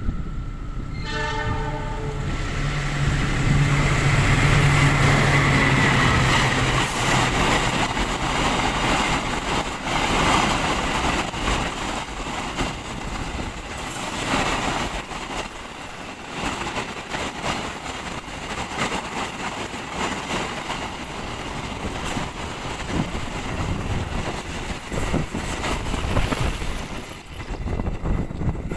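A train passing at speed: a short horn blast about a second in, the locomotive's engine going by loudest a few seconds later, then a long rattling clatter of the carriage wheels over the rail joints that drops away near the end.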